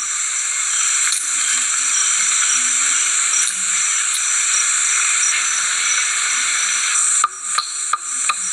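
Steady hiss like radio static, with a thin high whine running through it and a few sharp clicks near the end.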